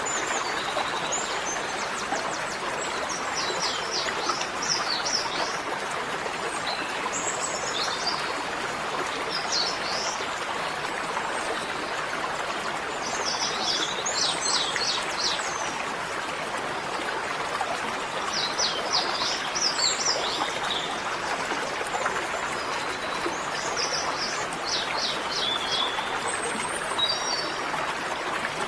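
Birds singing short phrases of rapid high chirps, repeated every few seconds, over a steady rushing noise.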